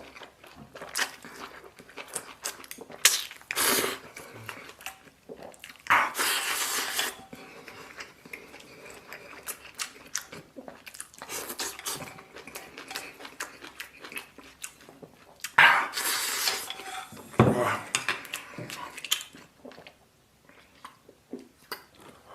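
Eating sounds: utensils clinking and scraping against a bowl, with chewing and mouthfuls of braised beef and rice, in several loud bursts between quieter stretches.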